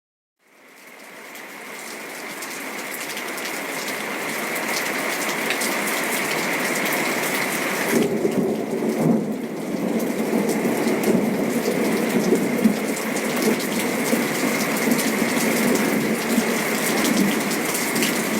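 Heavy rain pouring, with low rolling rumbles of thunder from about halfway through. It fades in over the first few seconds out of silence.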